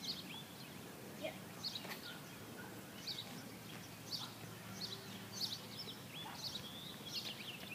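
Birds chirping: short, high calls repeated every half second to a second, over a faint steady low background hum.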